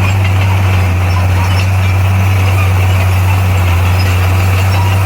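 Heavy-equipment diesel engine running steadily at a constant speed, a loud, low, even drone with no change in pitch.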